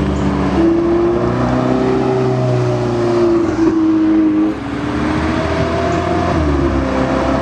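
Car engine running at low revs as the car moves slowly, its note drifting gently up and down, with a slight drop in level about four and a half seconds in.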